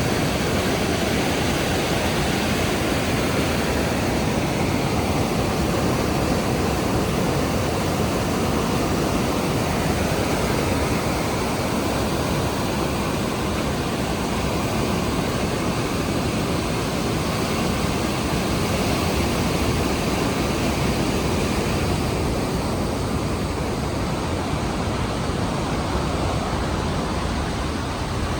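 Steady roar of the Rhine Falls: an even, unbroken rush of falling water, heaviest in the low and middle range.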